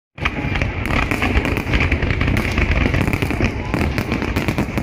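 Aerial fireworks display going off: a dense, rapid string of bangs and crackles with deep booms underneath, starting abruptly.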